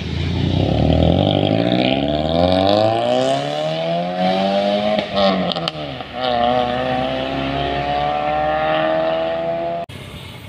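Toyota Yaris with an NDK full-system racing exhaust and DK-01 V2 muffler accelerating hard: the exhaust note climbs steadily, breaks and falls at an upshift about five seconds in, then climbs again more slowly. It cuts off abruptly near the end.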